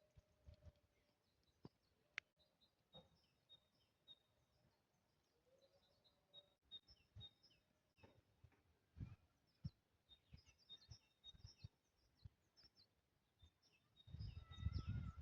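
Faint, high, short bird chirps scattered through otherwise near-quiet outdoor air, with occasional soft low thumps and a louder low rumble near the end.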